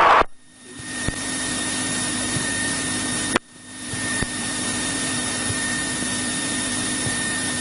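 Steady drone of a 1963 Cessna 172E's six-cylinder Continental O-300 engine and propeller inside the cabin. It cuts out abruptly twice, a moment in and about three and a half seconds in, and fades back in over about a second each time.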